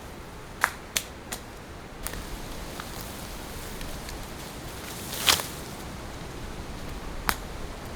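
Steady hiss of rain on the tent, a little louder from about two seconds in, with sharp clicks: three close together near the start, a louder crack about five seconds in and one more near the end.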